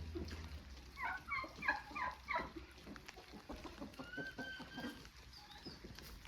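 Chickens clucking: a quick run of short clucks, then one longer drawn-out call.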